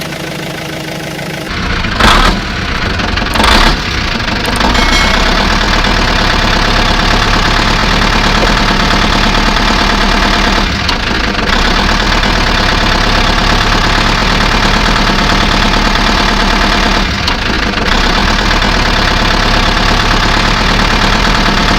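An engine starting: two sharp knocks about two seconds in, then it settles into a steady idle.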